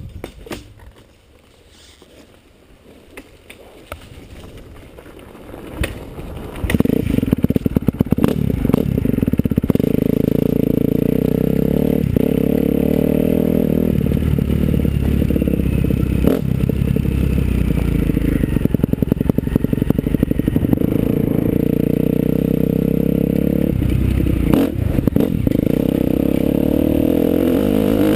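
Faint clicks and low rumble for the first few seconds, then about six seconds in a motocross bike's engine comes in suddenly loud and keeps running hard and steady, with little change in pitch.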